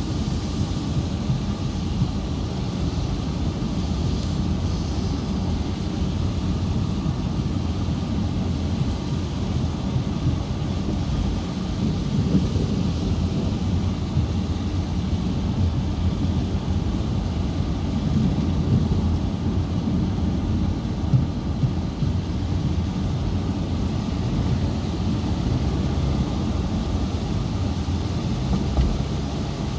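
Steady low rumble of thunderstorm wind buffeting the microphone, with a faint hiss above it and no distinct thunderclaps.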